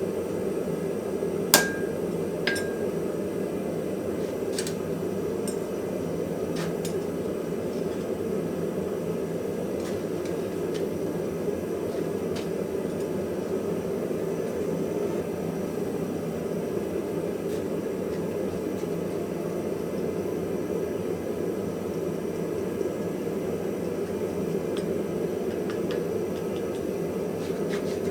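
Steady rushing drone of workshop equipment, with two sharp, ringing metal clinks about a second and a half and two and a half seconds in, then a few fainter taps.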